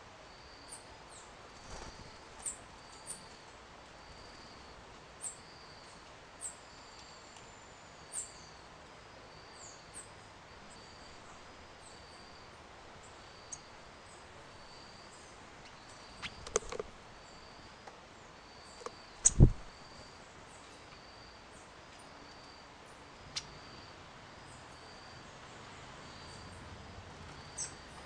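Small songbirds at a fruit feeder calling in short, high chirps about once a second, over a faint note repeating at a steady pace. A few sharp knocks come past the middle, and a single loud thump a little later.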